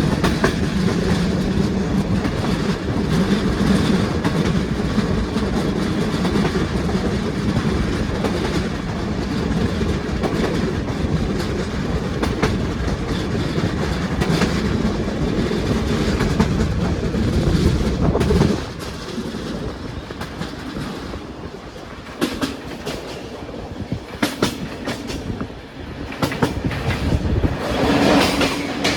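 Passenger train wheels rumbling and clicking over the rails, heard from on board the moving train. About two-thirds of the way through the rumble drops noticeably and separate clicks stand out, before it grows louder again near the end.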